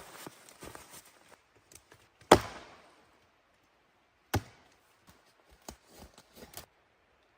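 Two sharp knocks about two seconds apart, the first louder with a brief ringing tail, then a run of light taps.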